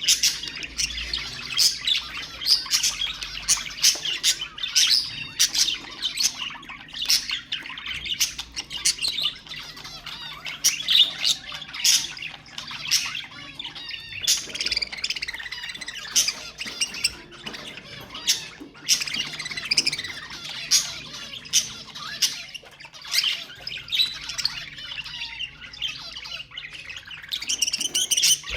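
Budgerigars chattering: a dense, continuous run of warbled chirps and sharp squawks.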